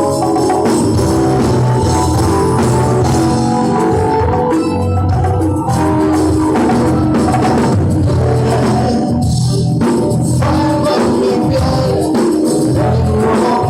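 Live pop band playing loud through a concert sound system, with keyboards and drums, as heard from the audience.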